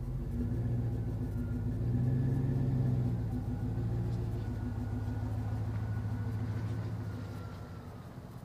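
Jeep Grand Cherokee's V8 engine running, swelling a little about two seconds in and fading toward the end.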